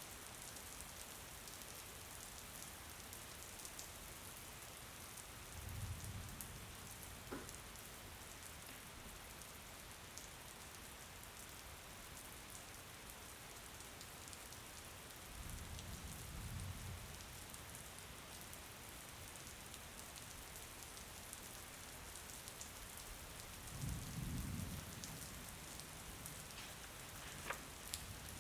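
Steady rain falling, an even hiss of drops, with three short, low rumbles spread through it.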